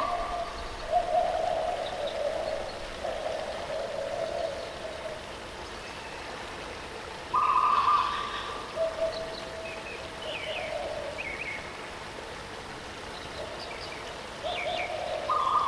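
Steady rush of falling water under bird calls. One bird gives long, even whistled notes, a high one followed by two lower ones, at the start, about seven seconds in and again near the end. Short higher chirps from another bird come in between.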